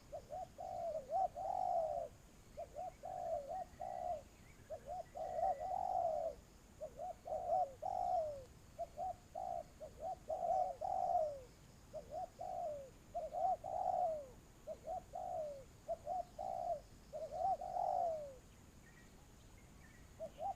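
Spotted doves cooing: phrases of short, low coo notes, each phrase ending on a falling note, following one another closely. They stop about two seconds before the end, and one more coo comes right at the end.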